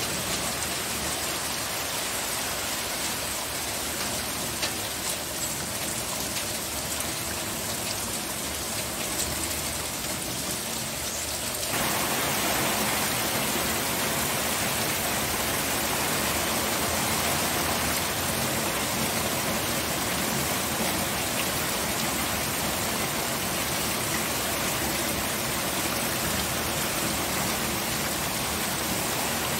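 Steady rain falling on a surface, a dense patter of drops. About twelve seconds in it abruptly becomes louder and denser.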